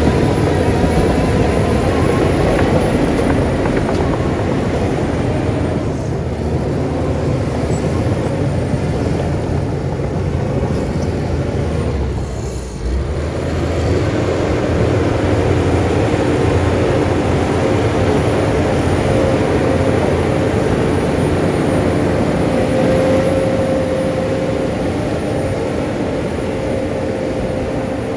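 Heavy diesel engine of a crawler bulldozer working steadily, with a brief dip in loudness about twelve seconds in.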